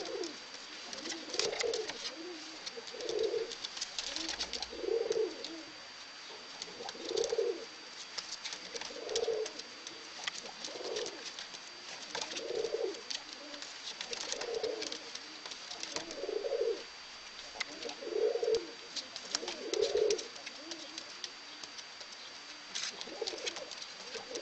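Domestic Polish owl pigeons cooing: low, repeated coos about every two seconds, with a short break a little after twenty seconds in.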